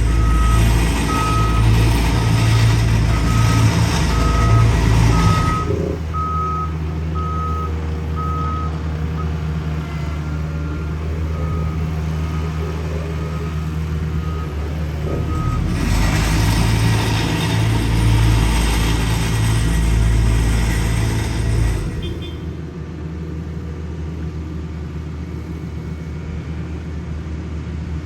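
Diesel road-paving equipment running, its engine working harder twice for several seconds at a time, while a reversing alarm beeps about once a second through the first half and then stops.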